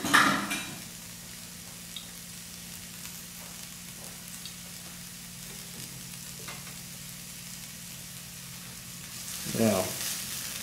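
Chopped garlic, ginger, bell pepper and green onion sizzling gently in a little oil in a nonstick frying pan, a steady soft hiss. A brief clatter comes at the very start, and near the end a spatula starts stirring the pan.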